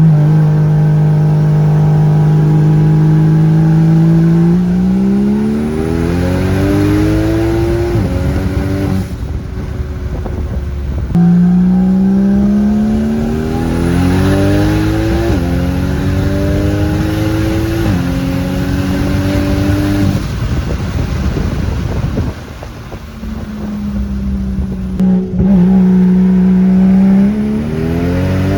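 BMW turbocharged inline-six engine revving hard and pulling through the gears, its pitch climbing steadily and then dropping sharply at each upshift. It is held at steady high revs at the start and again near the end.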